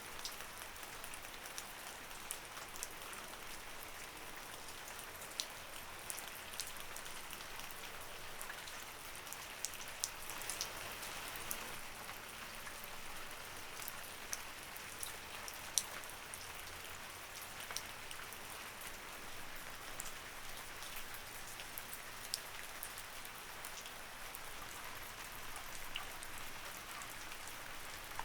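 Light rain falling steadily, a soft even hiss with scattered individual drops ticking sharply on a nearby surface.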